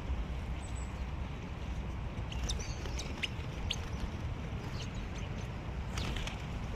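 Small birds giving short, high chirps and ticks, scattered and irregular, with a few more around the middle and near the end, over a steady low outdoor rumble.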